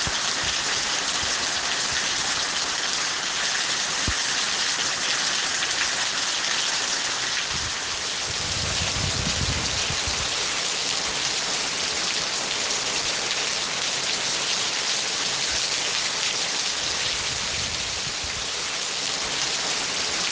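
Steady heavy rain falling, a dense even hiss, with a brief low rumble swelling about eight seconds in.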